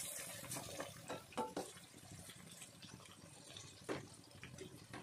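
Eggplant strips frying in hot oil in a kadhai: a steady sizzle with scattered crackles and a few sharper clicks, the clearest about a second and a half in and near four seconds.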